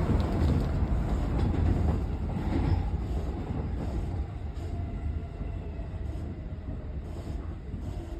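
Tokyo Metro 17000 series electric train heard from inside the passenger car, slowing as it nears the station: a steady running rumble that fades, with a faint tone gently falling in pitch in the middle.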